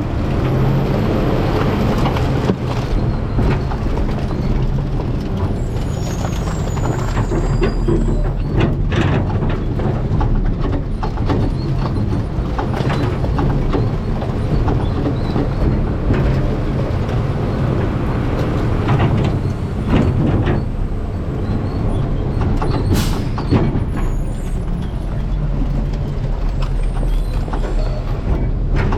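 Garbage truck's diesel engine running steadily, with scattered sharp cracks and knocks from trash in the hopper.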